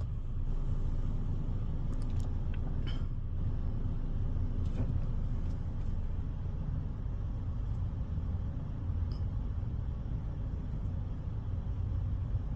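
Steady low rumble of an idling car engine, with a few faint clicks.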